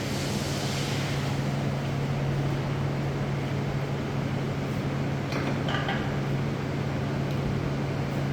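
Steady low hum of foundry machinery, with a brief higher-pitched clink or squeak about five and a half seconds in.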